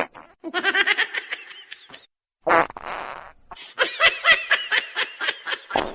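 Bursts of laughter in quick pulses, about five a second, broken about two and a half seconds in by a short harsh sound.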